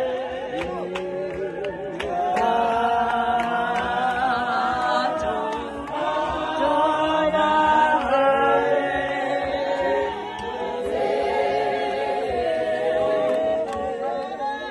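A group of voices singing together a cappella in several parts, with sharp clicks now and then.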